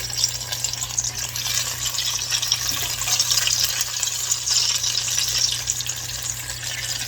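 Spring rolls frying in hot oil: a steady crackling sizzle.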